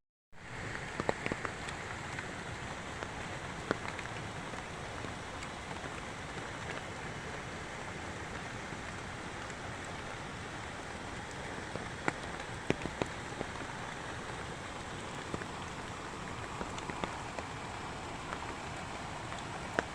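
Steady rain falling, with scattered sharp drop hits standing out from the even hiss.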